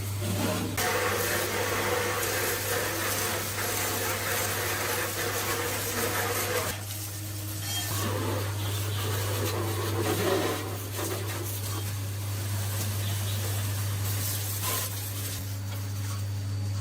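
A steady low machine hum under long stretches of hissing noise, which dip briefly about seven seconds in and again about twelve seconds in.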